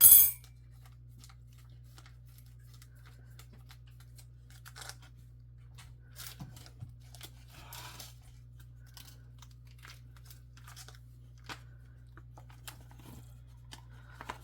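A brief loud tear right at the start, a heated food pouch being ripped open, followed by scattered faint rustles and light clicks of the packaging being handled.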